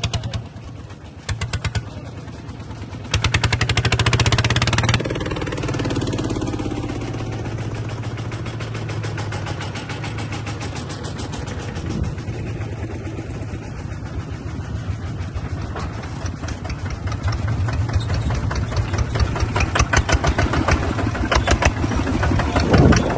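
Small Kubota bulldozer's engine running with rapid, even firing pulses. About three seconds in it revs up for two seconds, then settles back to a steady run, and it grows louder again over the last few seconds.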